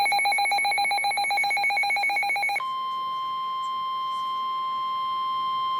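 Rapid electronic alarm beeping from the weather radio alert, which changes about two and a half seconds in to the steady single-pitch NOAA Weather Radio warning alarm tone (about 1050 Hz). The tone signals that a new warning is about to be read.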